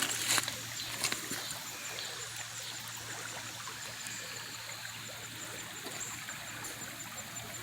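Shallow creek water trickling steadily over rocks, with a couple of sharp clicks in the first second or so.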